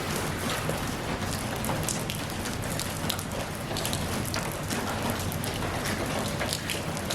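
Steady rain falling, with many individual drops striking close by as sharp irregular patters over the continuous hiss of the shower.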